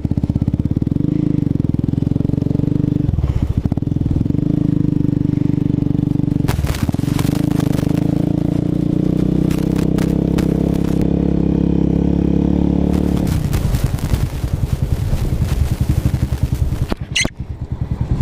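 A 125cc motorcycle engine running at low revs, its note shifting a few times as it is ridden slowly, with a brief high squeal near the end.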